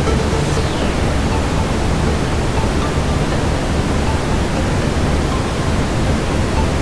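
Steady brown noise: an even, deep hiss weighted toward the low end, with a fireplace ambience mixed beneath it.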